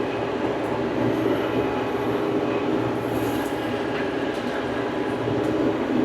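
Old farm tractor's engine running steadily under way, with a continuous mechanical rattle.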